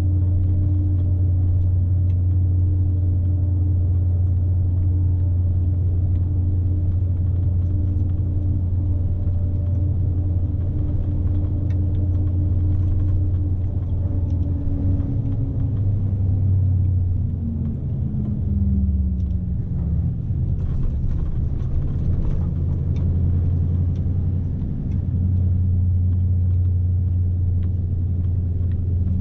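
Scania S520's V8 diesel engine droning steadily, heard from inside the truck's cab. The engine note falls about halfway through, then holds steady again.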